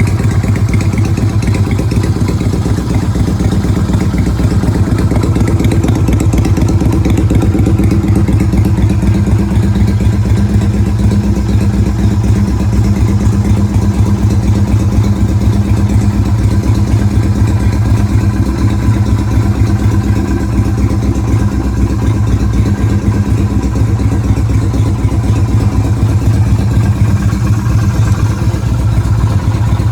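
Yamaha Virago 250's air-cooled V-twin engine idling steadily.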